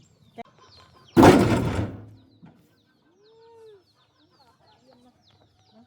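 A heavy wooden crash and clatter about a second in, as a log is dropped onto the cargo bed of a farm vehicle. After it come a short chicken call and faint chirping of small birds.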